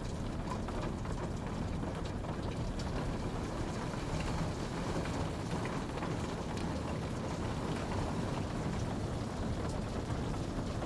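Steady rain falling, with a low even rush and scattered individual drops ticking on a surface.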